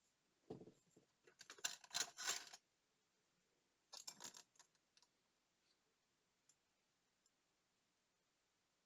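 Small tools and parts handled on a work surface: a cluster of sharp clicks and scrapes lasting about two seconds, a shorter cluster a little later, then a few faint single ticks.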